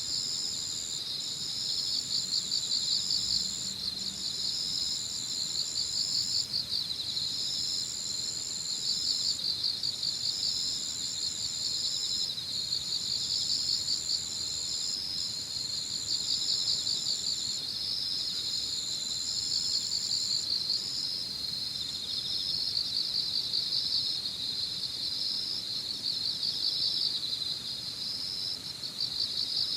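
Evening chorus of crickets and other insects: dense, pulsing high chirping throughout. An even higher, steady trill runs in long stretches with short breaks and stops about two-thirds of the way through.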